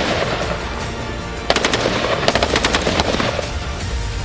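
Colt M4 carbine firing 5.56x45mm NATO in two rapid strings of shots, the first about a second and a half in and the second just after two seconds, over background music.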